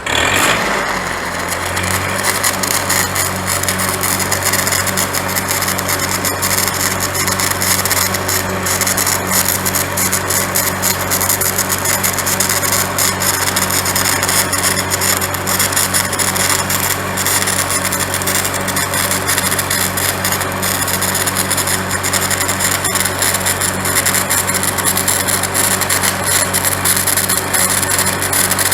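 Stick welding arc crackling and hissing steadily, struck abruptly at the start, over the steady hum of an engine-driven welder running under load.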